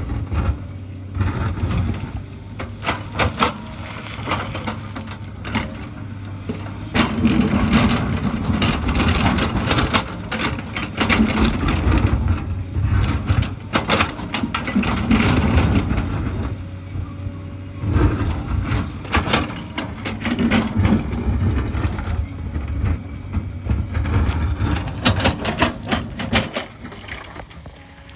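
Hyundai hydraulic excavator's diesel engine running, its note swelling and easing repeatedly as it works, with many sharp knocks and scraping of rock and earth against the bucket.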